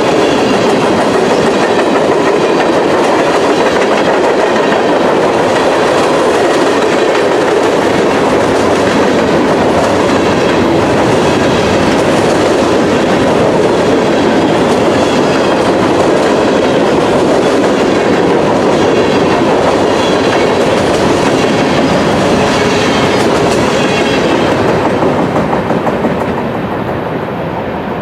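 A train's cars rolling past on the track, a loud steady rumble of wheels on rail that begins to fade near the end.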